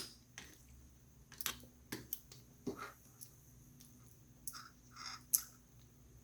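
Faint, scattered light clicks and taps of small laptop parts being handled as wires are pressed under plastic tabs inside the open laptop base, with a sharper click about five seconds in.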